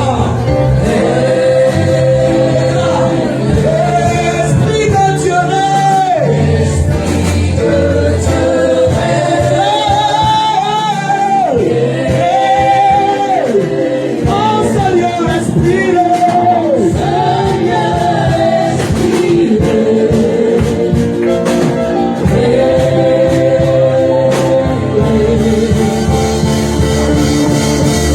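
Gospel worship music: voices singing a melody with vibrato over a band with steady bass and percussion.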